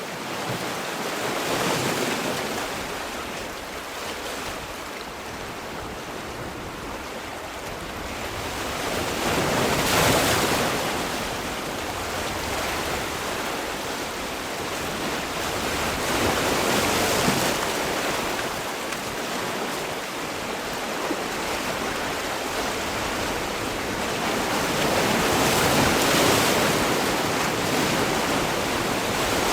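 Sea waves breaking on the shore, a continuous wash of surf that swells and recedes, with peaks roughly every six to eight seconds.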